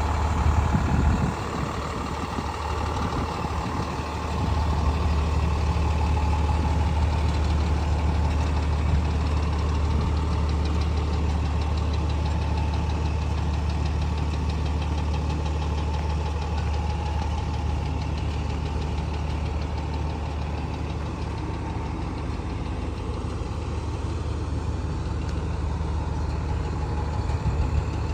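Diesel engine of an International HV507 brush truck idling steadily, a low even drone. A few louder low bumps come in the first second and again near the end.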